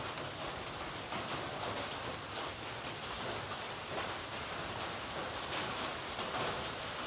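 Light drizzle falling steadily: an even hiss of rain with a faint patter of drops on surfaces.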